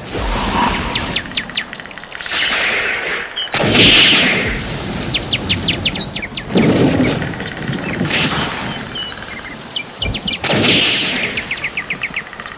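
Birds chirping and trilling in quick runs of short calls, over several loud rushing swells, the loudest about four seconds in.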